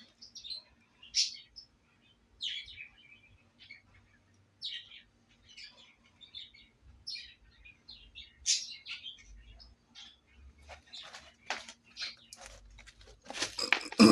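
Small birds chirping in short, irregular calls, roughly one a second, over a faint steady hum. A brief louder noise comes near the end.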